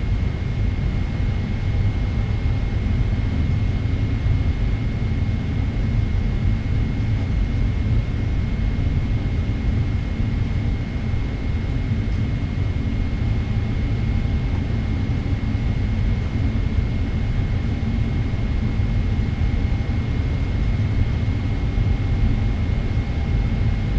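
Steady low cabin rumble inside a Boeing 777-300ER, with a faint steady high whine over it.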